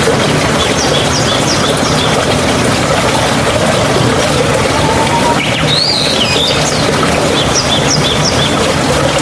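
Steady rush of running water, with small birds chirping over it. There is a run of short, high chirps about a second in, a call with rising and falling notes around the middle, and another run of short chirps after it.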